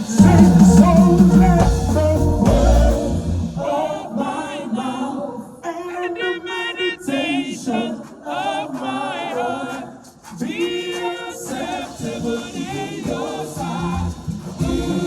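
Music with voices singing, with heavy bass for the first few seconds.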